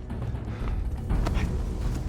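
Tense drama score with a low, heavy drum pulse, a few short knocks sounding over it about halfway through.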